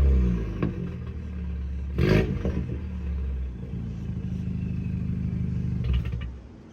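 BMW N20 turbocharged four-cylinder in a 2014 320i, breathing through a 2.5-inch straight-pipe exhaust with no mufflers or resonators. A rev falls back to idle right at the start. It then idles steadily, with a brief clatter about two seconds in, and the sound drops away near the end.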